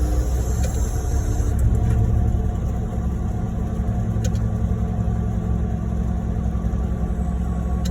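Heavy diesel truck engines running steadily at a concrete pour: a ready-mix concrete truck discharging into a pump truck, a continuous low drone.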